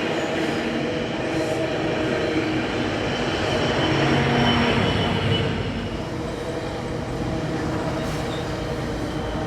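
Diesel-electric passenger locomotive hauling a train, its engine running with a steady hum over rail rumble, swelling loudest about four to five seconds in and then easing off.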